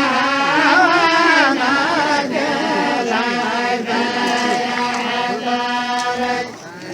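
Men's voices chanting a traditional tribal 'la'ib' chant of the Qays tribe, with long held, wavering notes; the voices dip briefly near the end.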